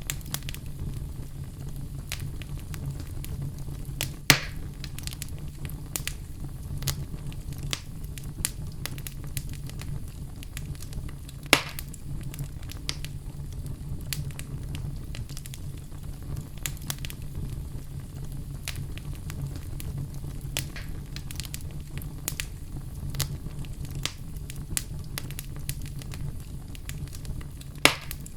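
Oak logs burning in a fireplace: a steady low rumble of flames with scattered crackles and three louder sharp pops, about four seconds in, near the middle and near the end.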